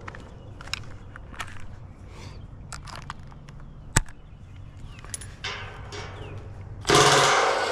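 Hand tools and metal parts being handled during a condenser fan motor swap: scattered light clicks and knocks, with one sharp knock about four seconds in. Near the end a loud rasping, grinding noise starts suddenly.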